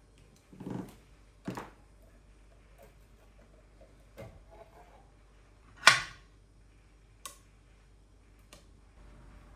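Household items being handled in a quiet kitchen: about six separate knocks and clatters, the loudest about six seconds in.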